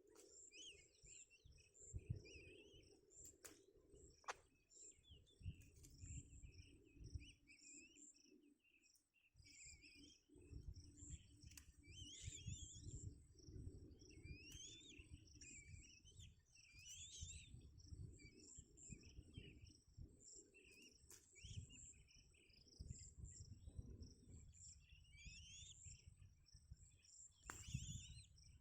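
Faint bird chirps, many short rising and falling calls throughout, over a steady high insect trilling, with a soft low rumble coming and going underneath.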